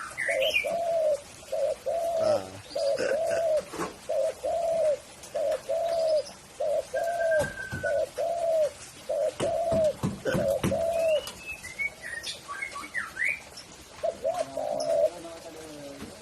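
Spotted dove (tekukur) cooing: a long, even series of low coo notes, about two a second, for some eleven seconds. After that come a few high chirps from a smaller bird, and the cooing starts again near the end.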